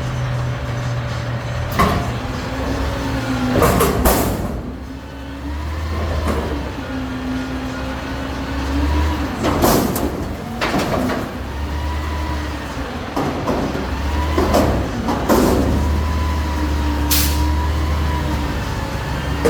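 Garbage truck running, its engine revving up in long stretches with a pitched whine rising and falling, broken by several sharp bangs and short hisses of air.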